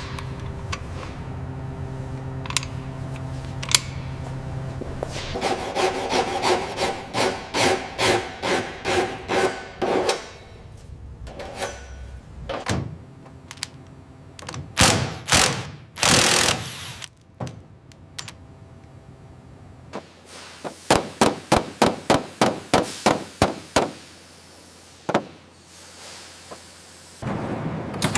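Hand-tool work: a steady low hum with a few clicks, then two runs of quick rhythmic scraping or tapping strokes, about two to three a second. Scattered knocks and a short hiss come between the runs.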